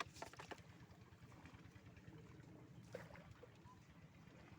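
Near silence: a faint low background rumble, with a few light knocks at the start and one about three seconds in.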